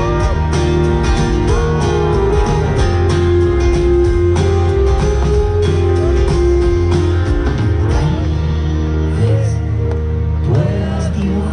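Live band playing an instrumental passage: guitar over sustained bass notes and a steady drum beat. The drums thin out about eight seconds in.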